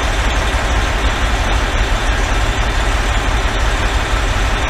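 Pierce Velocity fire engine's Detroit Series 60 diesel running, a steady low rumble heard inside the cab.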